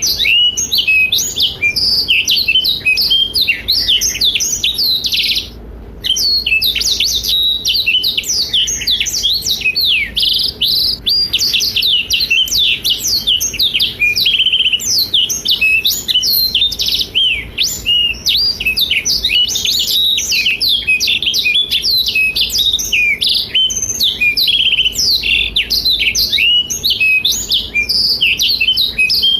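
Black-throated canary (blackthroat) singing in full voice: a fast, unbroken stream of high chirps, trills and rapid note runs, with a short pause about five and a half seconds in.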